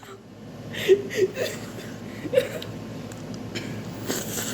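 A child's stifled, breathy laughter: short irregular snickers and gasping breaths from laughing hard.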